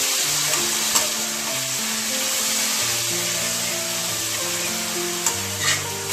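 Green chilli and garlic paste sizzling steadily in hot oil in an aluminium kadai, stirred with a metal spatula. The spatula knocks sharply against the pan about a second in and twice near the end.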